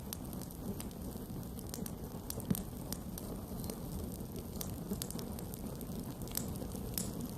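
Campfire burning: a steady low rumble of flames with irregular sharp pops and crackles, one louder pop about two and a half seconds in.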